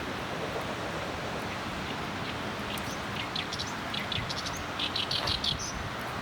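Small birds chirping in quick clusters of short, high notes, busiest near the end, over a steady rushing outdoor background.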